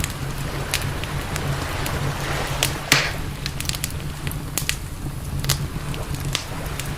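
Wood campfire crackling, with scattered sharp pops and one louder pop with a brief hiss about three seconds in, over a steady low rumble.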